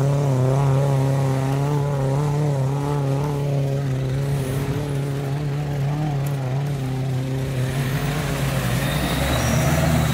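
SUV engine running steadily at low revs under off-road load, a drone that wavers slightly in pitch and picks up a little near the end.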